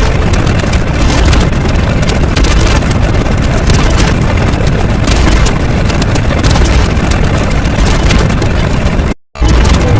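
Loud, dense rumbling noise with heavy low end, cutting out for a moment about nine seconds in.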